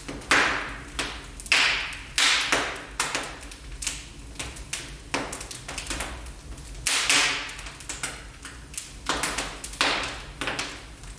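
Wood fire burning in a fireplace: irregular sharp crackles and pops, some with a brief hiss, over a low steady rumble of the flames.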